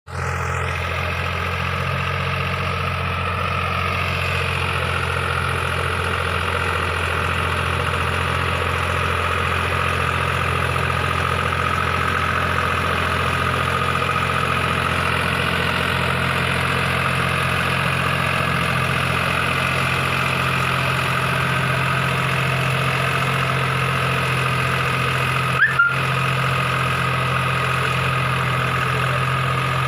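Deutz-Fahr Agrolux 50 4WD tractor's diesel engine running at a steady speed, a continuous low drone. There is a brief click with a short chirp near the end.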